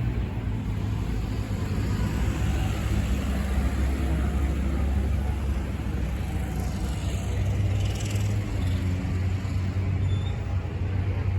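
An engine running steadily at a constant low rumble, with no revving.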